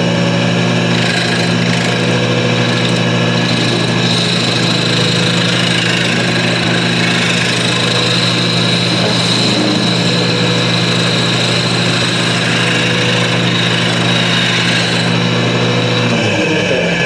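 Wood lathe and shop dust collector running with a steady machine hum. From about a second in until near the end, a higher hiss of a turning tool cutting the spinning wood. Near the end the pitch of the hum sags briefly.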